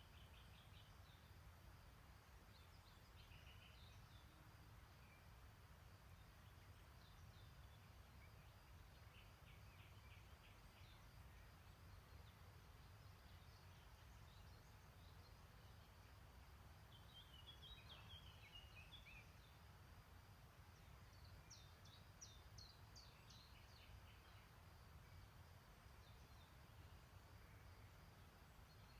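Faint songbirds chirping and trilling on and off in short phrases, busiest in the second half, over a steady low murmur.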